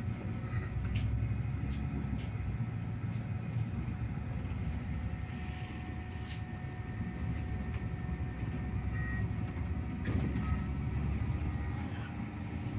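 Inside a MAZ-215 articulated diesel city bus on the move: steady low engine and road rumble with a faint whine over it, and a few light rattles.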